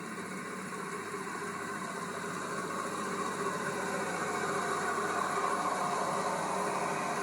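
A train running, its rumble and rolling noise growing steadily louder as it approaches.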